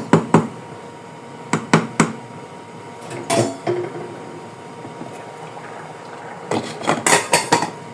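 Kitchen utensils knocking against a cooking pot in short bursts: a few sharp clacks near the start, more about two seconds in, and a quick cluster near the end.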